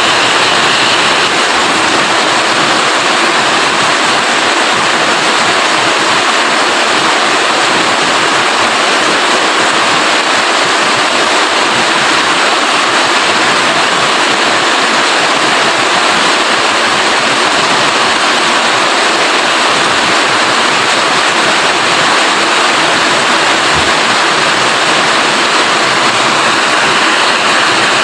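Rain falling steadily: a dense, even hiss.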